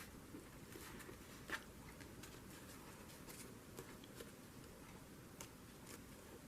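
Near silence with faint rustles and light taps of paper being handled and pressed into place, one slightly louder tap about one and a half seconds in.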